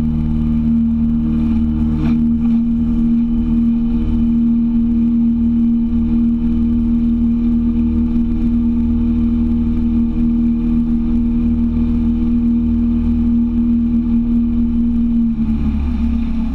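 Boat's outboard motor running at a steady speed with an even hum, dropping in pitch near the end.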